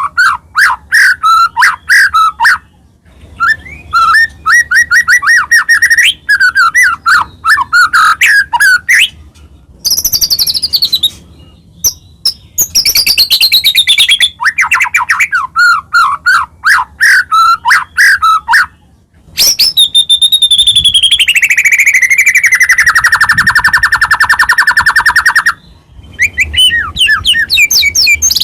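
White-rumped shama singing loudly in fast, varied phrases with short pauses between them. About two-thirds of the way through comes one long rattling trill that falls steadily in pitch.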